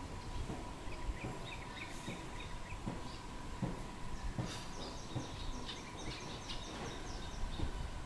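Small birds chirping outdoors: a short quick run of high chirps about a second in, then a longer run of higher, rapid chirps from about four and a half seconds to seven. A faint steady high tone runs underneath.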